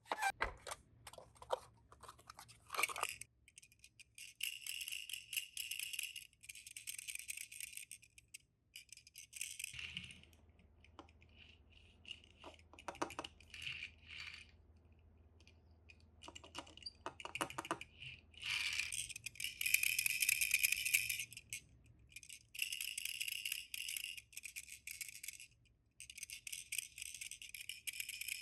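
Small die-cast minicars clicking and rattling as they are handled, with several high-pitched rattling bursts of a second or two, the loudest about two thirds of the way through.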